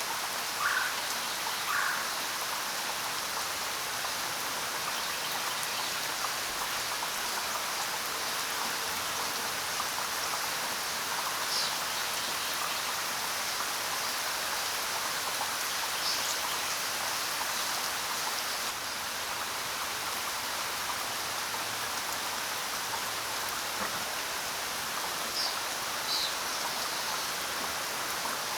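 Steady rain falling, with a few short bird chirps scattered through it.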